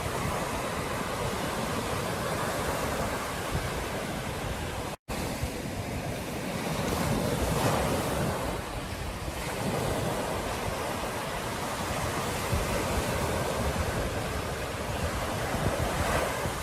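Ocean surf breaking and washing on a beach, swelling louder for a couple of seconds near the middle, with wind rumbling on the microphone. The sound cuts out completely for an instant about five seconds in.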